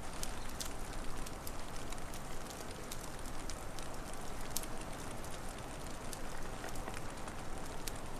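Wood fire crackling, with irregular sharp pops and snaps over a steady rushing hiss.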